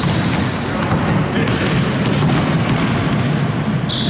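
Basketball game play in a gym: the ball bouncing on the hardwood court amid a steady din of players' footsteps and shoes, with many short knocks.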